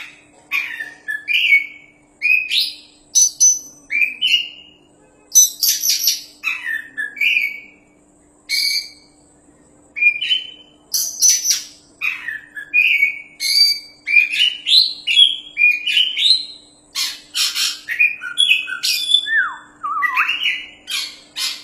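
Oriental magpie-robin (kacer) in full song, delivering quick, varied whistled phrases mixed with harsh rasping notes, with a short pause a little before the middle.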